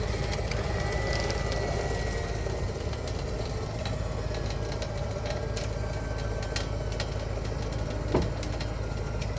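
Battery-powered electric winch on a homemade gin pole crane running under load as it lifts a heavy vehicle: a steady drone with scattered clicks and creaks, and a single knock about eight seconds in.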